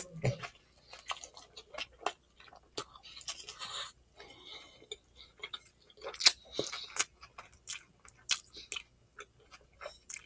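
Close-miked chewing of a Philly cheesesteak sub, heard as a string of irregular mouth clicks, with a bite into the roll at the start.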